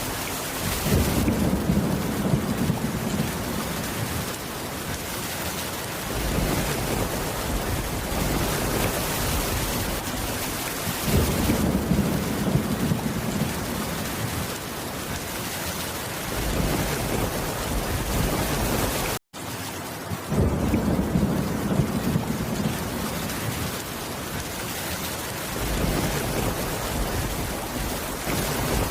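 Steady heavy rain, with low rumbles of thunder swelling three times, each for a couple of seconds. The sound cuts out completely for an instant about two-thirds of the way through.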